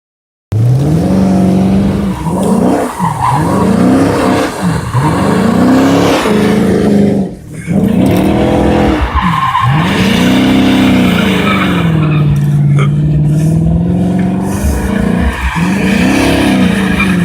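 Dodge Magnum R/T's 5.7-litre Hemi V8 revving up and down over and over as the car drifts, its tyres sliding on wet pavement. The engine pitch rises and falls repeatedly, with a short drop in revs about seven seconds in.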